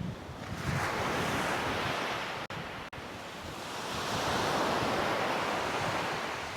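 Sea waves breaking and washing up the beach, swelling twice, with wind on the microphone.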